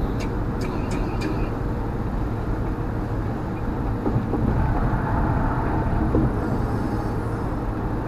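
Road and engine noise heard from inside a car driving at highway speed: a steady, even rumble of tyres and engine.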